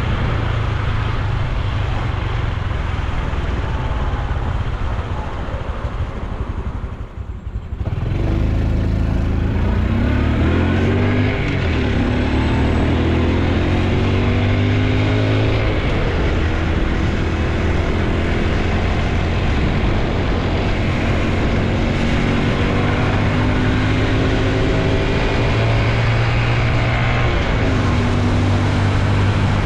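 Honda Super Cub C125's single-cylinder four-stroke engine and exhaust while riding, with road and wind noise. About eight seconds in the sound dips briefly, then the engine pulls away, rising in pitch several times as it shifts up, and settles into steady running.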